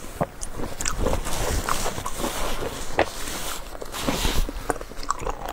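Close-up eating of raw abalone: wet chewing and crunching with mouth clicks and smacks at an irregular pace, and a brief hiss about four seconds in.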